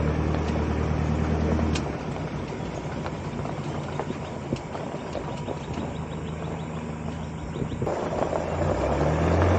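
A vehicle engine running with a steady low hum, loudest for the first two seconds, dropping back, then rising again near the end.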